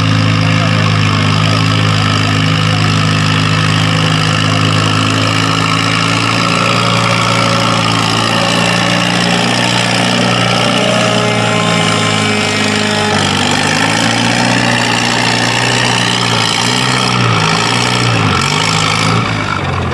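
Farm tractor's engine running hard at a steady, high speed under load while pulling the weight-transfer sled. Near the end its pitch wavers up and down and the sound eases off slightly.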